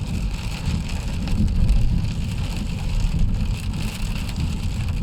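Heavy rain falling on a car, heard from inside the cabin, over the car's steady low rumble.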